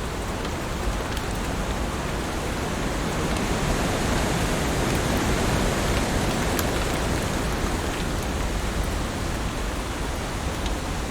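Heavy rain falling steadily: a dense, even hiss with scattered faint drop ticks, swelling a little louder midway and easing again toward the end.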